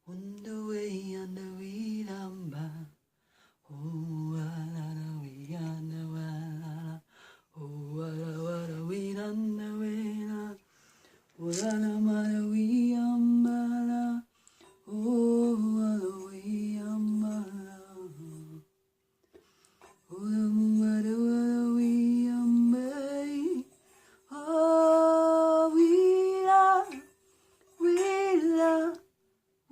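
A woman singing light language unaccompanied: wordless phrases of a few seconds each, holding and sliding between notes, with short breaks between phrases. A faint steady tone sounds underneath in the second half.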